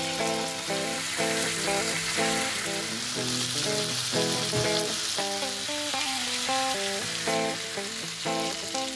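Diced seasoned chicken sizzling steadily in hot oil in a frying pan, under background music.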